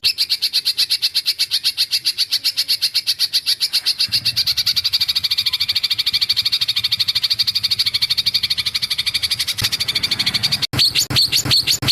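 A small songbird's fast, even trill of short, high, sharp notes, repeated without a break for about ten seconds, then after a brief gap a slower run of louder sweeping notes near the end. It is recorded birdsong of the kind used as masteran material for training white-rumped shamas.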